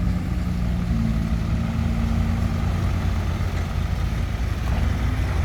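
Diesel engine running steadily at idle, a low even drone.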